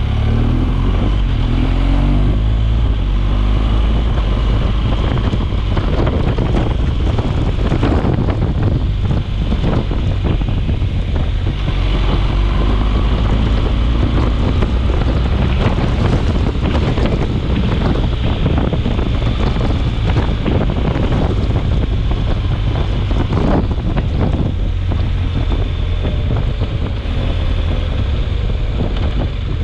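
Storm wind blowing hard against the microphone: a loud, steady low rumble with crackling gusts throughout.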